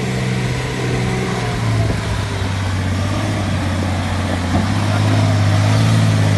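Vehicle engine running with a steady low hum, growing slightly louder about five seconds in.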